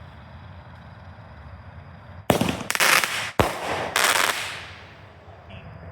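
A single-shot consumer aerial firework tube firing its flaming ball: a sudden rush of loud hissing a little over two seconds in, broken by a sharp crack partway through, dying away about two seconds later.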